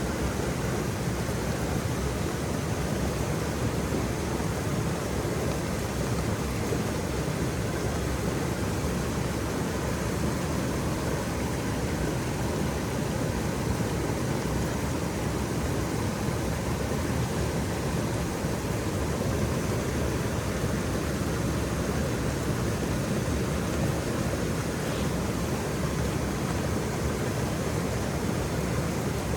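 Waterfall: water pouring and splashing in a steady, unbroken rush, heaviest in the low end.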